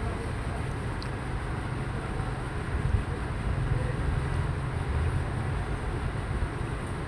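Steady low outdoor rumble with no clear pitch or rhythm.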